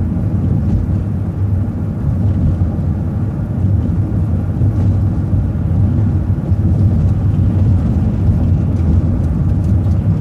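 Steady low drone of a city transit bus's engine and road noise, heard on board as the bus drives along.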